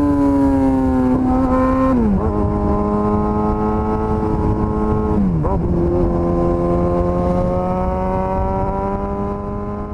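Suzuki GSX-S1000's inline-four engine running under way, its pitch falling slowly, then dropping suddenly twice, about three seconds apart. After the second drop the revs climb slowly again.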